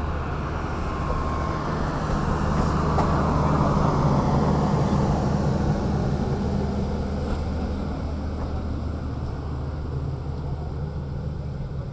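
Passenger train coaches rolling past on the rails and moving away: a steady rumble with a low hum that swells to its loudest about four seconds in, then slowly fades as the last coach recedes.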